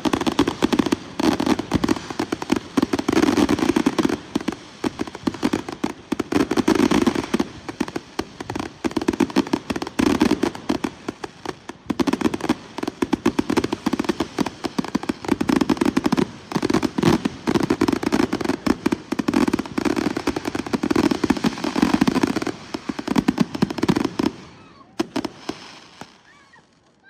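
Consumer fireworks going off in a dense, continuous barrage of rapid bangs and crackles. The barrage thins out and stops a couple of seconds before the end.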